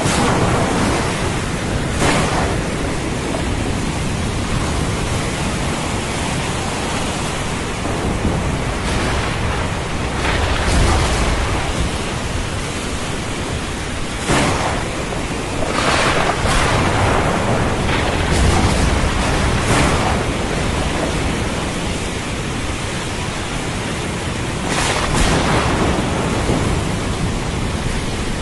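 Thunderstorm: a steady hiss of heavy rain, with thunder cracking and rumbling several times.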